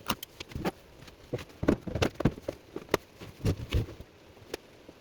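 A run of irregular light knocks and clicks, about a dozen over a few seconds, like tools and objects being picked up and set down on a work surface.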